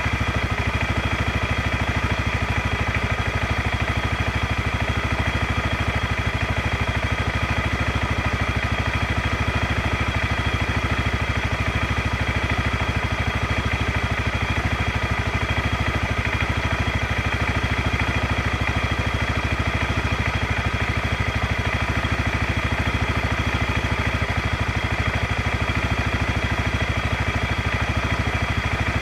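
ATV engine idling steadily, with no change in speed.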